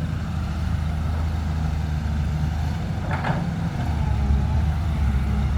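Heavy vehicle's engine running steadily with a low drone, with one short higher sound about three seconds in.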